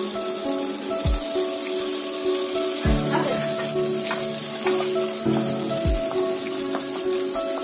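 Egg masala roast sizzling in oil in a pan. Background music with held notes and a few low thumps plays over it.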